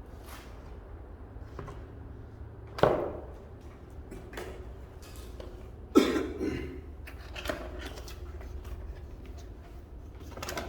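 Scattered knocks and clicks of things being handled and set down, with two louder thumps about three and six seconds in, over a steady low hum.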